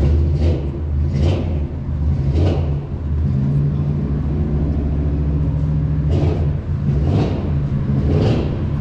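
A motor vehicle engine running steadily with a low, even hum, with a few brief noisy swells over it.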